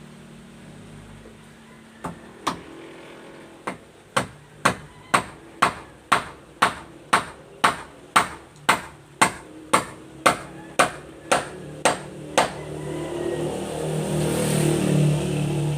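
A hammer driving a nail into wood: a few scattered blows, then a steady run of about two strikes a second for some eight seconds. Near the end the hammering stops and an engine hum grows louder.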